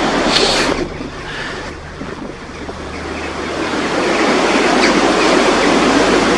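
Strong wind rushing through the trees in gusts. It eases off about a second in, then builds again to a steady rush over the last few seconds.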